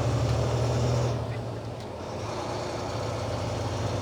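Truck engine and road noise heard inside the cab: a steady low drone that drops back a little over a second in, then runs on more quietly.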